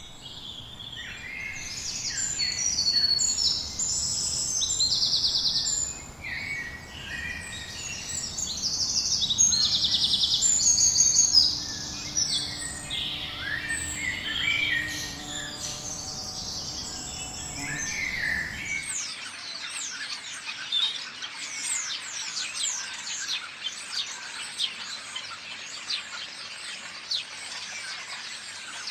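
Several birds calling and singing in a mix of whistled and chattering phrases. About two-thirds of the way through, the sound changes abruptly to a dense stream of short, high, quick chirps.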